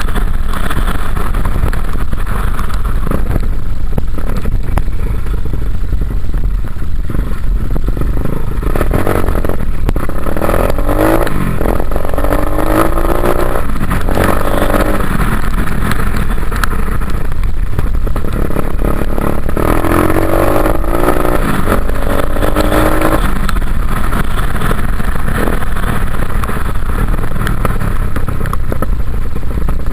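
Dirt bike engine being ridden, its pitch climbing and dropping as it accelerates and shifts, most clearly twice, near the middle and about two-thirds of the way through, under a constant low rumble.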